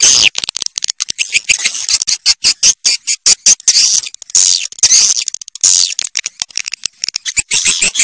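Swiftlets (walet) twittering: dense, fast runs of high-pitched chirps and clicks that overlap without pause. This is the kind of swiftlet call recording played to lure the birds into nest houses.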